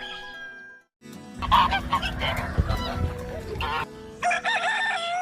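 Bird calls: after a brief break about a second in, loud honking calls, then a long held call that drops in pitch at its end.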